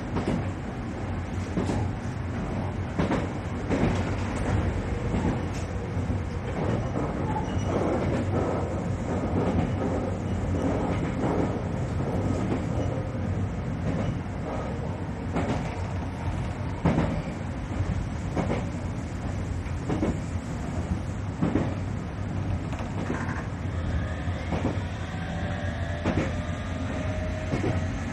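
Passenger train running on the rails, heard from inside the car: a steady rumble with irregular knocks from the track. A whine rises in pitch near the end.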